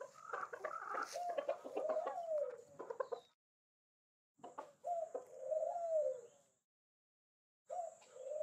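Faint bird calls in three bouts, each two to three seconds long with the pitch arching up and down, with short silences between them.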